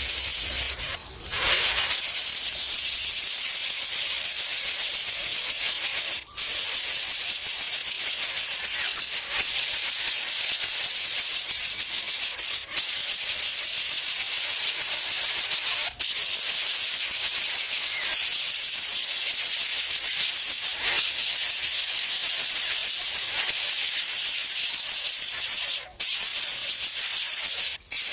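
Steady high-pitched hiss, broken by short gaps about a second in, at about six seconds, and several more times, twice close together near the end.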